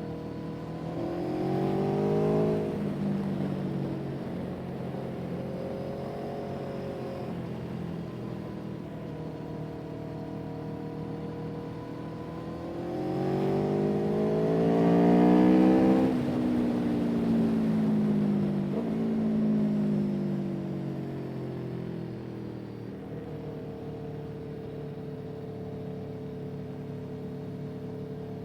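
A motor engine running steadily, speeding up and slowing down twice: a short rise and fall in pitch near the start, then a longer, louder one in the middle.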